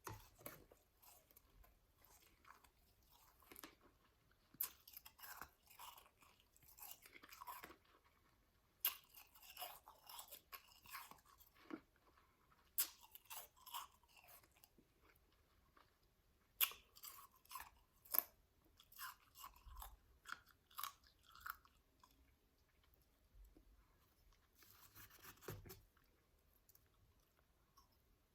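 Close-miked chewing of powdery shaved ice, soft crunches coming in bursts of several bites with short pauses between them.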